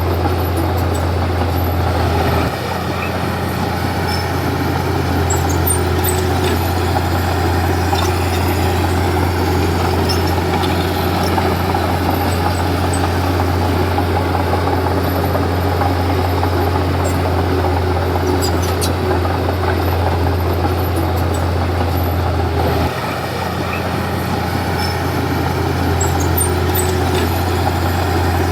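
Komatsu D31P bulldozer's diesel engine running with a steady deep drone. The engine note shifts abruptly twice, a couple of seconds in and near the end.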